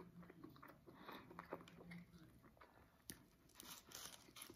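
Faint chewing of a mouthful of bacon burger: soft, scattered wet mouth clicks and smacks.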